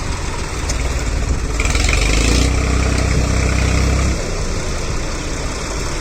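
Diesel tractor engine running steadily. It grows louder about one and a half seconds in, with a brief hiss, and drops back about four seconds in.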